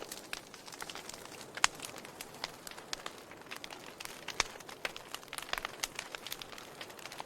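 Wood fire in a fireplace crackling, with irregular sharp pops over a steady hiss; two louder pops stand out, one just under two seconds in and another past the middle.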